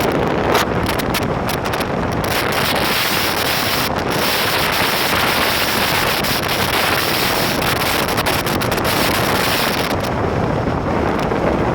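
Strong gusty wind buffeting the microphone in a loud, constant roar of wind noise.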